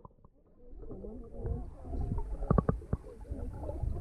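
Muffled pool water sloshing and gurgling around swimmers and otters, with a few sharp knocks about two and a half seconds in. It begins almost silent and rises within the first second.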